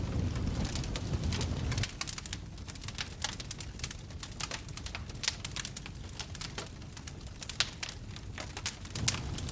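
Wood fire crackling in a fireplace, with frequent sharp pops and snaps. A low rumble underneath drops away about two seconds in and comes back near the end.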